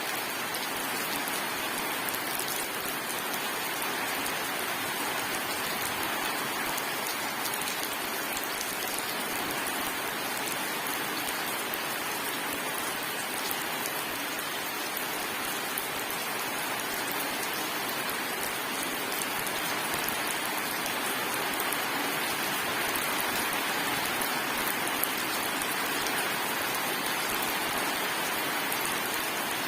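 Steady rain falling on a hard surface: a dense, even hiss of many drops with fine individual drop ticks, no thunder.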